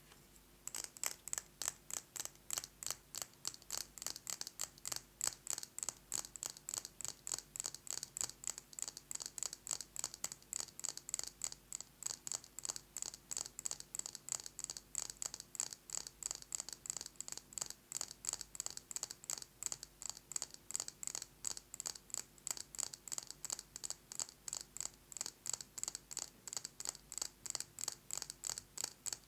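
Fast fingernail tapping on a candle jar: a steady run of quick, bright taps, about five a second, starting about half a second in.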